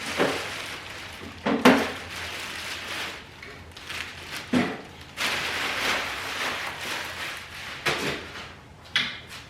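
Packaging rustling and several sharp knocks as a small MIG welder is lifted, turned and set down during unboxing.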